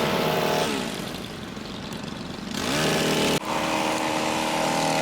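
Two-stroke hedge trimmer engine at full throttle, falling back to idle about a second in, then revved up again a little before three seconds and held high. There is a sharp click shortly after the revving returns.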